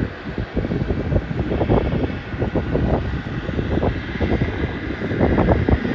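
Distant aircraft engine noise across the airport, a steady faint whine under a rough rumble, with wind gusting on the microphone in irregular buffets that grow stronger toward the end.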